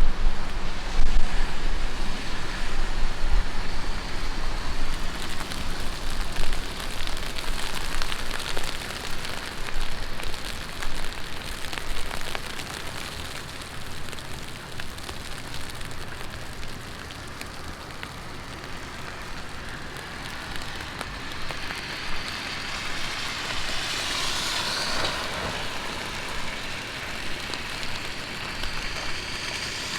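Heavy rain falling on a city street: a steady hiss of rain, heavier over the first dozen seconds and then easing. A car passes on the wet road about two thirds of the way through, its tyre hiss swelling and fading.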